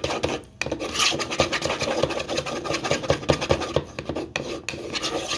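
Metal spoon stirring a cornstarch slurry in a small plastic bowl, scraping and clicking rapidly against the sides and bottom, with a short pause about half a second in.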